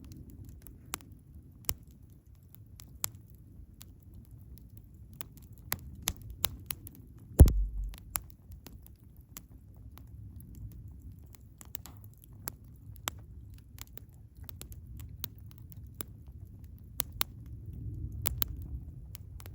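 Wood campfire burning, with scattered sharp crackles and pops over a low rumble of flame. About seven seconds in comes one loud thump with a short low boom.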